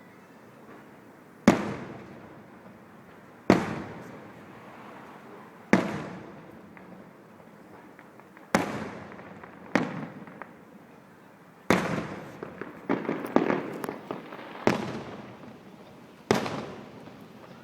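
Fireworks shells bursting in a display: a sharp bang every two seconds or so, each one dying away over about a second, with a quicker run of several bangs about twelve to fourteen seconds in.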